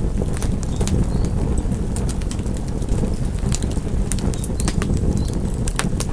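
Wood fire in a fireplace crackling: sharp, irregular pops and snaps, several a second, over a steady low rumble of burning.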